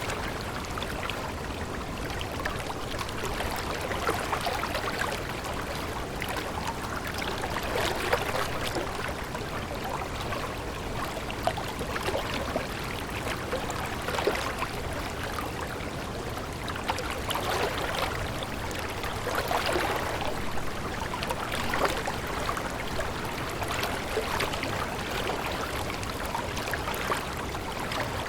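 Stream water flowing and burbling steadily, with many small splashes and trickles.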